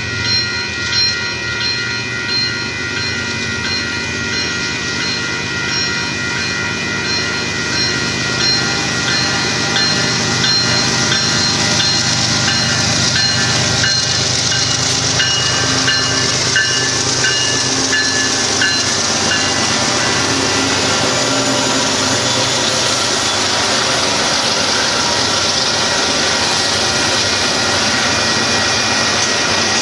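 Grade-crossing bell ringing while a Union Pacific freight train's diesel locomotives rumble past the crossing. In the second half the freight cars roll by, wheels on the rails making a steady hiss.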